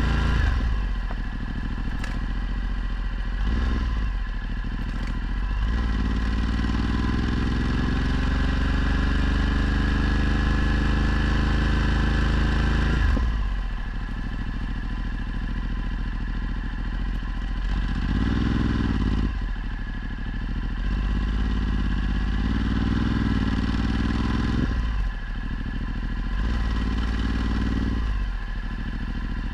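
Ducati Multistrada 1260's L-twin engine through a Termignoni exhaust under way. Its pitch climbs steadily for the first dozen seconds, then drops as the throttle is closed, followed by several shorter surges of throttle that rise and fall.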